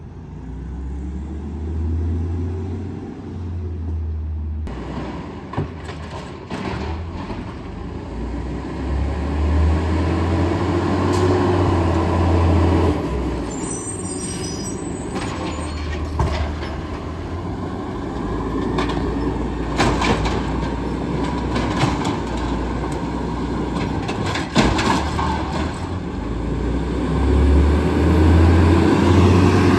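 Garbage truck's diesel engine running, its revs rising and falling several times, with scattered clanks and knocks.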